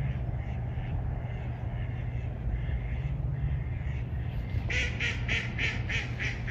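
Ducks quacking: a few faint calls, then a rapid run of loud quacks, about four or five a second, over the last couple of seconds, above a steady low rumble.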